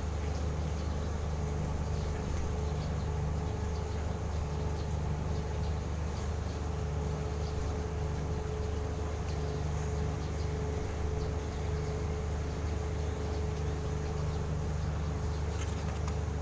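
Steady low mechanical hum with a constant tone above it, and faint scattered ticks.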